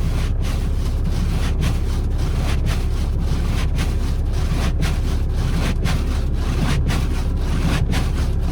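Volkswagen 1.9 TDI (ALH) four-cylinder diesel idling steadily just after a cold start, heard from inside the cabin. Windshield wipers sweep over it about once a second.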